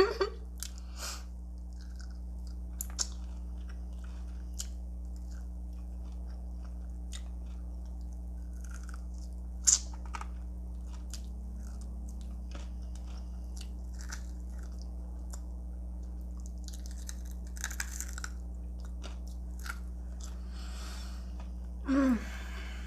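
Close-up chewing and crunching of fried chicken wings coated in crushed Flamin' Hot Cheetos: scattered crisp bites, with one loud crunch about ten seconds in, over a steady low electrical hum.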